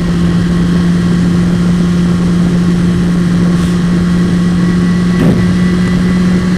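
Motorcycle engine running at a steady cruising speed, a constant low hum over a rumble of road and wind noise, with a brief wobble in the pitch a little after five seconds in.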